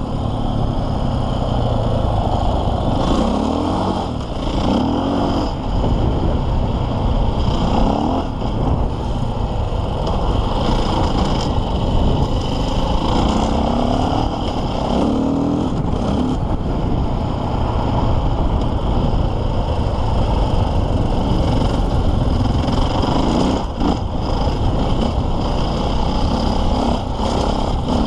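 KTM EXC 450 single-cylinder four-stroke enduro engine being ridden offroad, the throttle opened and closed again and again so the engine note keeps rising in pitch and dropping back.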